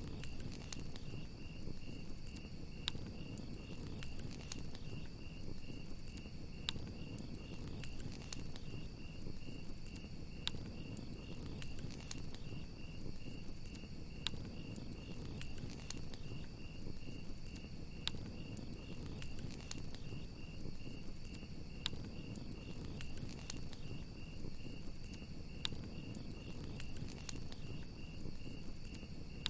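Crickets chirping in a steady, rapid pulsing trill over a campfire crackling, with sharp pops every second or two and a low rumble of the flames.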